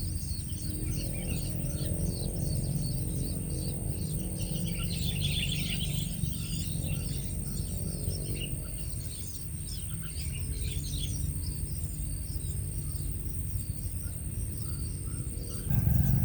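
Birds chirping busily, many short high calls overlapping, over low background music and a thin steady high whine.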